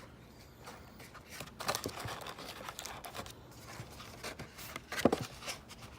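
A trading-card hobby box being opened by hand: packaging crinkling and tearing, with scattered crackles and one sharp snap about five seconds in.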